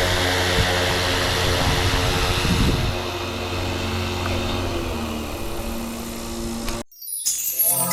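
Electric RC helicopter (Flywing Airwolf on an FW450 V3) running with a steady rotor and motor whine over wind noise on the microphone, quieter after about three seconds. Near the end it cuts off suddenly and music starts.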